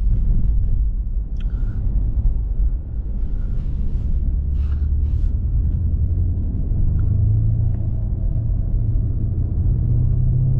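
BMW M5 Competition's twin-turbo 4.4-litre V8 running while driving, a steady low rumble whose pitch climbs gradually from about four seconds in as the car gathers speed.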